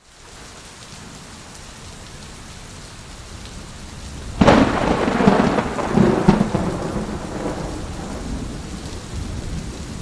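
Steady rain fading in, with a sudden thunderclap about four and a half seconds in that rumbles on for a few seconds, flares once more and dies away under the rain.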